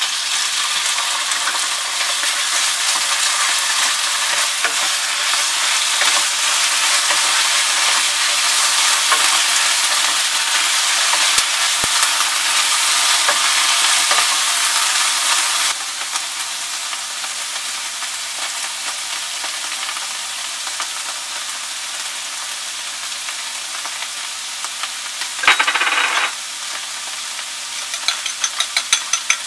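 Strips of carrot and green bell pepper with canned tuna frying and sizzling in a pan as they are stirred; the sizzle drops off about halfway through, and a short louder burst of noise comes near the three-quarter mark. Near the end, a fork beats egg in a glass bowl with quick, even clicks.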